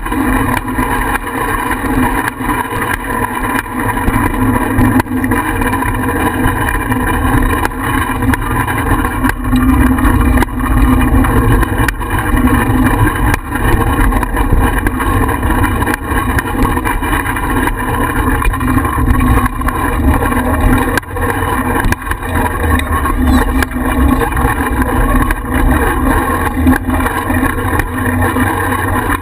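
Wind buffeting a GoPro mounted on a moving bicycle: a loud, steady rush with heavy low rumble, broken by scattered small clicks and rattles.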